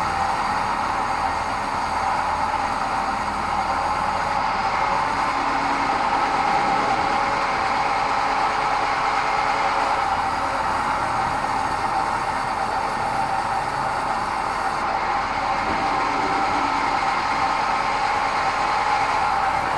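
Sawmill bandsaw running steadily on meranti wood, a constant loud machine noise with no breaks.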